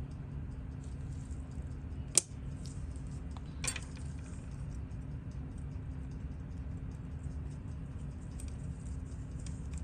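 Small metal clicks and taps of watchmaker's tools on the parts of a Seiko 6138 chronograph movement, with one sharp click about two seconds in and another near four seconds, over a steady low hum.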